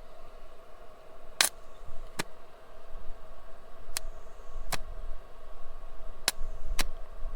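Six sharp, irregularly spaced clicks over a steady low machine hum.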